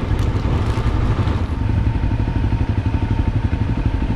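Motorcycle engine idling, a steady rapid low pulse, with a few light clicks in the first second or so.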